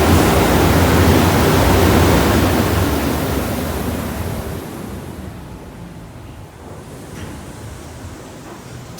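Car wash air dryer blowers running loudly with a low hum, fading away over a couple of seconds about halfway through as the car moves out of them.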